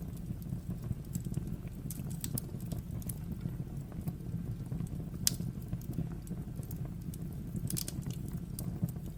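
Wood fire burning in a fireplace: scattered crackles and sharp pops over a steady low rumble, with one loud pop about five seconds in and a quick cluster of pops near the end.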